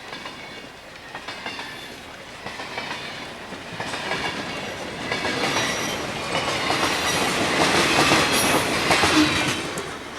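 Freight train rolling past, its wheels clacking over the rail joints; the sound builds to its loudest about eight seconds in, then eases off.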